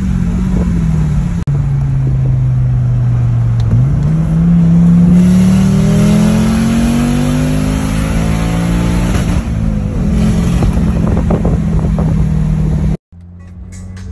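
Turbocharged 2.2-litre 20-valve inline-five engine of a 1994 Audi S4 (AAN) running hard through a straight-pipe exhaust, heard from inside the cabin. Its note falls and dips for an instant about one and a half seconds in, holds low, then rises steadily as the car pulls again and stays high. About a second before the end it cuts off sharply, and a much quieter engine sound follows.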